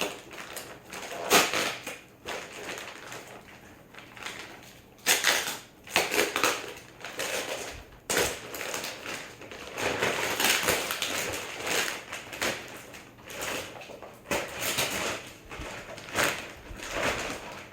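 Packaging being pulled apart and crinkled in irregular bursts, with a few sharp knocks, as a boxed exhaust manifold is unwrapped and handled.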